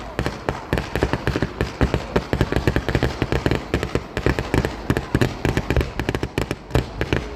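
Fireworks going off in a rapid, irregular barrage of sharp bangs and crackles, several a second.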